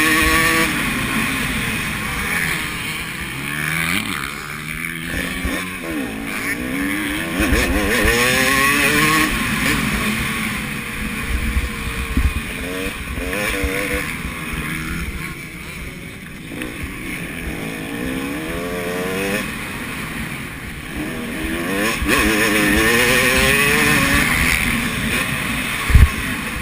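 Motocross bikes racing on a dirt track, their engines revving up and down through the gears as they pass. A single sharp thump comes near the end.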